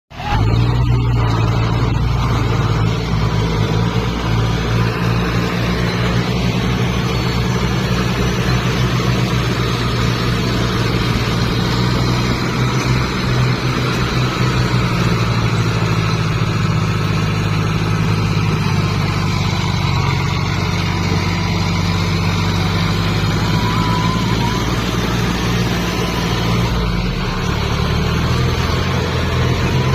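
Tractor engine running steadily at a loud, even drone, its low note shifting slightly near the end.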